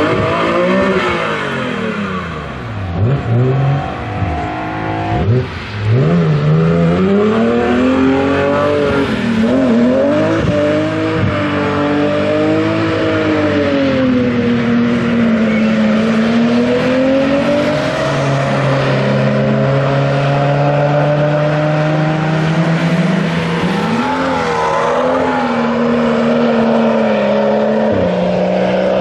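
Car engine revving hard on a racetrack. In the first few seconds the pitch climbs and drops several times as gears change, then it settles into a steadier, slowly wavering drone under sustained throttle.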